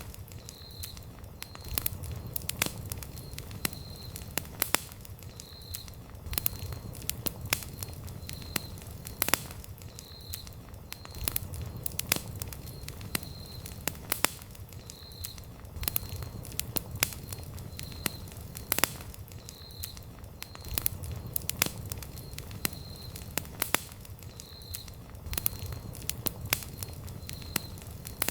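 Wood campfire crackling, with irregular sharp pops of varying loudness over a low rumble of flames that swells and fades every few seconds.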